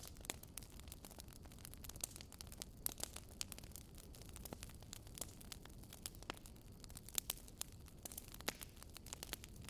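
Wood campfire crackling, with irregular sharp snaps and pops, over a faint steady low rush of a river.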